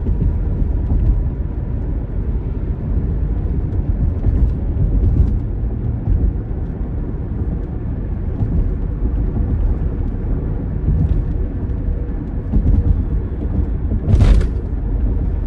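Road and engine noise inside a moving car: a steady low rumble over rough, broken pavement, with one brief loud knock about fourteen seconds in.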